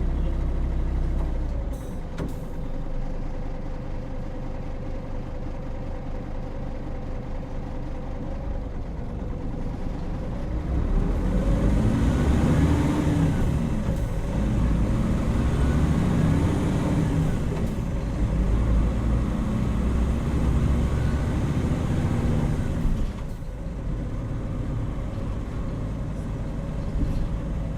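Hino Rainbow HR city bus's diesel engine running, heard from inside the cabin: it eases off about two seconds in, then picks up about eleven seconds in, its pitch rising and falling through the gears, and eases off again about twenty-three seconds in.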